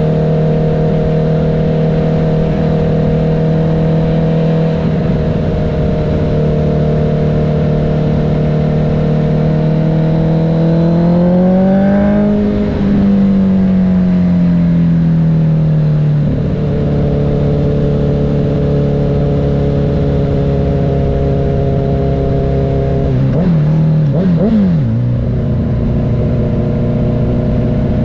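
Honda CB1000R's inline-four engine running under way at road speed, heard from the rider's seat over a steady rush of wind. Its pitch climbs about a third of the way in, then eases back down. Near the end it wavers briefly and settles lower.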